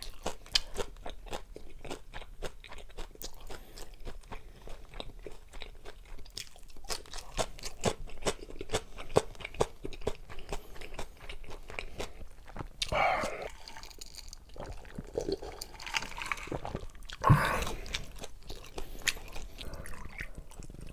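Close-miked crunchy chewing: a dense run of quick crisp crunches as food is bitten and chewed. Two louder, longer mouth sounds stand out, one about two-thirds of the way through and a stronger one a few seconds later.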